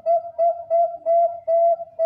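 Bangkok-strain zebra dove (perkutut bangkok) cooing: a fast run of short, clipped coo notes, about three a second, all on one pitch.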